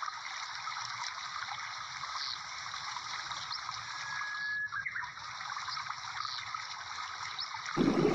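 Garlic, shallot and chopped tomato frying in hot oil in a wok: a steady sizzle with small crackles.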